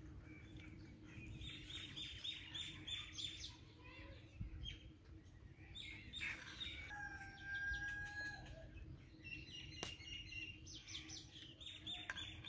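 Birds chirping and calling faintly, many short chirps with one clear held whistled note about seven seconds in.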